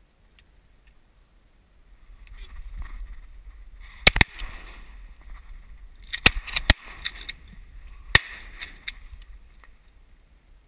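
A volley of about six shotgun shots, in three bursts: two close together, three more about two seconds later, and a last one near the end. Waterfowl hunters are firing at incoming ducks, with a low rumble of wind and water underneath.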